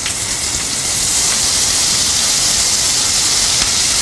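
Frozen green peas and cumin seeds sizzling steadily in hot oil in a pan, a loud even hiss.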